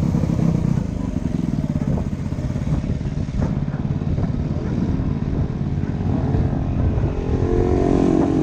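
Dirt bike engine running steadily, revving up near the end.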